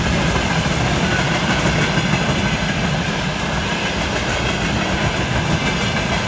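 A train passing close by on the track, its wheels giving a loud, steady rolling noise.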